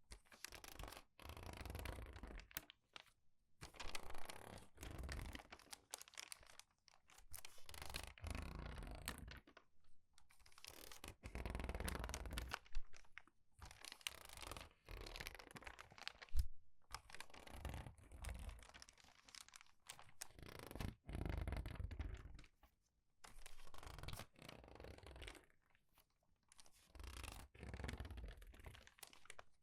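Crinkled paper pages being turned quickly and squeezed, giving a run of short crinkling rustles with brief pauses between them.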